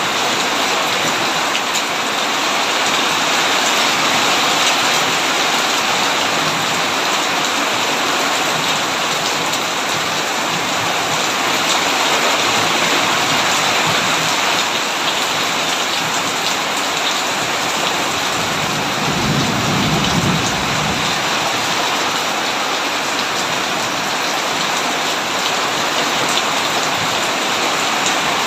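Heavy rain falling steadily on a tin roof, a dense even hiss. About two-thirds of the way through, a short low rumble of thunder comes in.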